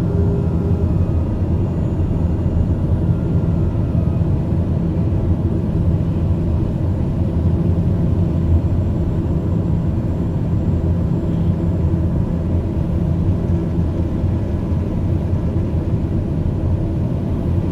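Aircraft engines, a steady low drone with a constant hum.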